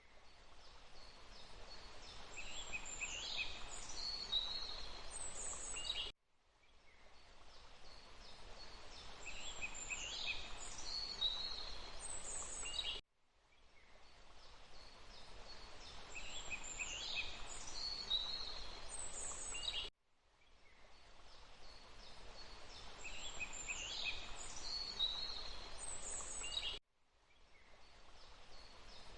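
Forest birds singing high chirps and trills over a steady rush of water. The recording is a short loop of about 7 seconds: the sound cuts out suddenly about every 7 seconds and fades back in, with the same bird phrases each time.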